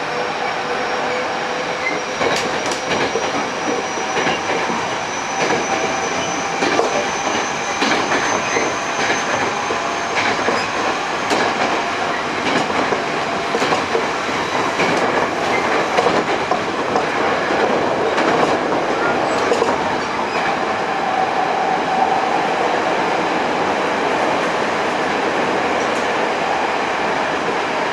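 Hankyu 8000 series electric train (Toshiba GTO-VVVF) heard from inside a car while running at speed: steady rolling noise with sharp rail-joint clicks, and a thin whine that rises slowly in pitch over the first ten seconds or so.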